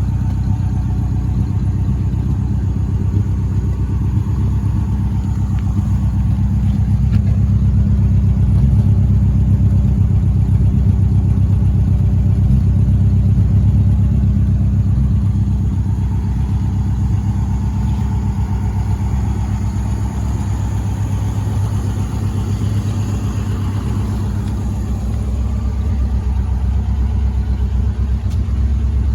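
The 2.5-litre V8 of a 1963 Daimler SP250 idling steadily, still warming up after a cold start. It gets a little louder for a few seconds partway through.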